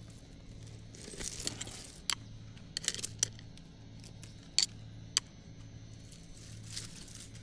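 Rustling leaves and snapping, tearing plant stems as overgrown weeds are pulled by hand, with several sharp clicks scattered through. A low steady hum runs underneath.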